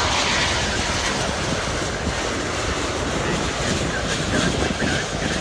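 Jet airliner engines running, a steady, loud rumbling noise with no clear pitch.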